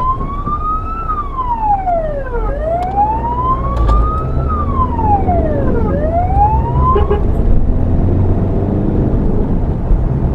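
Emergency vehicle's siren on wail, heard from inside the vehicle: slow rising and falling sweeps about three seconds apart. The siren cuts off about seven seconds in, leaving the vehicle's engine and road noise.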